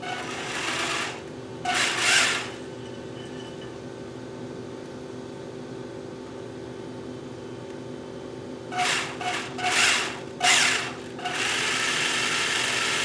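Small electric hand tool, like a cordless driver, run in short bursts: two early on, a cluster of quick bursts later, then one held for about two seconds near the end.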